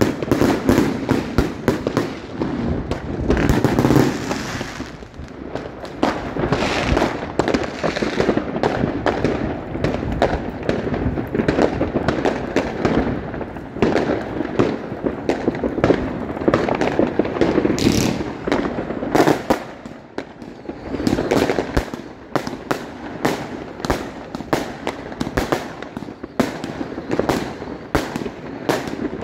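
A dense, unbroken barrage of fireworks going off all around: many sharp bangs and cracks overlapping, with no pause.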